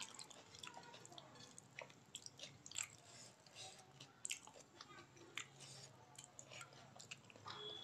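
Close-up eating sounds: a mouthful of rice and dal being chewed with many short, sharp wet mouth clicks and smacks, together with fingers mixing soft rice on the plate.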